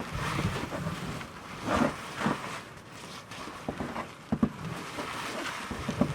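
Wind rumbling on the microphone, with scattered short knocks and rustles of handling.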